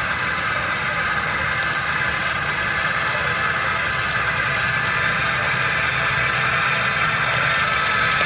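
Radio-controlled model excavator running: a steady whine from its motors with a low engine-like rumble underneath.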